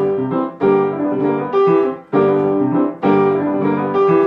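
Piano playing rhythmic chords, struck about once a second and left to ring, in an instrumental gap between sung lines of a pop song.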